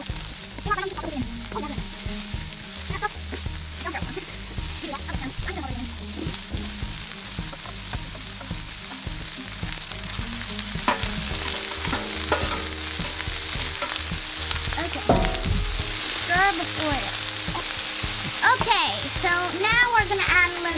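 Diced vegetables sizzling in hot olive oil in an electric skillet while a spatula stirs them. The sizzle gets louder about ten seconds in, when a tray of sliced zucchini is tipped into the pan.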